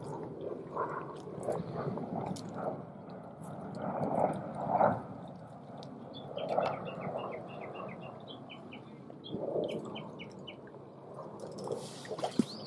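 A small songbird calling a quick run of short chirps, about three a second, for several seconds in the middle. Under it, irregular splashing and scuffing from work in shallow water, loudest about four to five seconds in.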